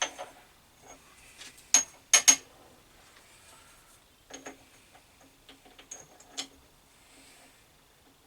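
Sharp metal clinks and taps, a handful of separate hits each with a short ring, the loudest pair about two seconds in: the parting blade and tooling being handled and fitted on a metal lathe's tool post, with the lathe not running.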